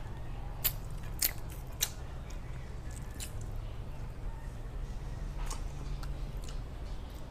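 A person chewing crunchy fried food close to a clip-on microphone: three sharp crunches in the first two seconds, then a few fainter ones, over a steady low hum.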